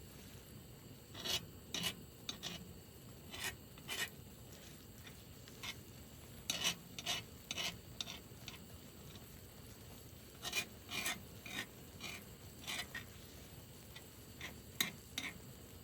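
A run of short scraping or rubbing strokes, about twenty in all, irregularly spaced and some in quick pairs.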